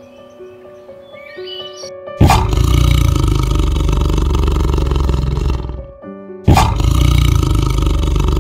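Tiger roaring twice: two long, loud, rough roars, the first starting about two seconds in and the second a second after it ends, over soft background music.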